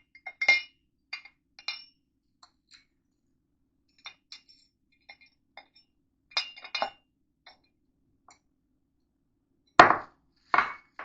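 Meat grinder parts clinking and knocking as they are handled and pushed together: scattered short ringing clinks and light clicks, then two louder, duller knocks near the end as the head is forced against the base.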